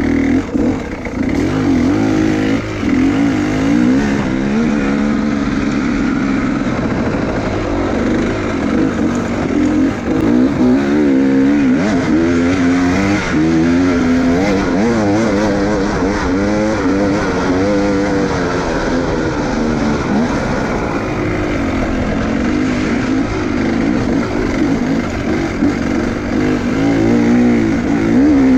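Enduro motorcycle engine running hard, its revs rising and falling constantly as the bike works through rough ground.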